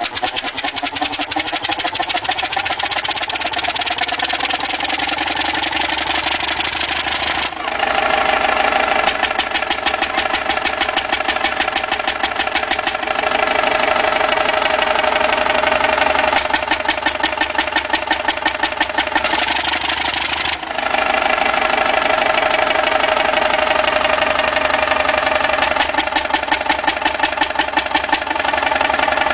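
Old engine running with a steady, rapid firing beat. The sound changes abruptly twice, about 7 seconds in and again about 20 seconds in.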